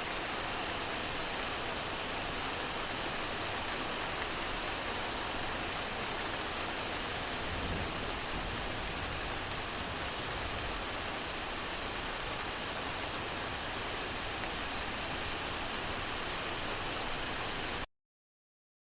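A steady, even hiss of noise, like rain or rushing water, with no distinct drops or tones. It cuts off suddenly near the end.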